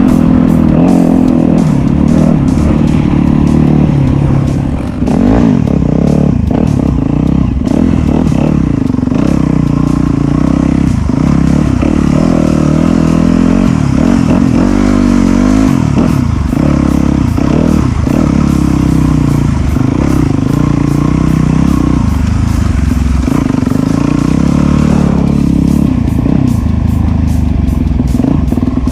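Off-road dirt bike engine revving up and down as it rides a trail, its pitch rising and falling continuously, with background music mixed in.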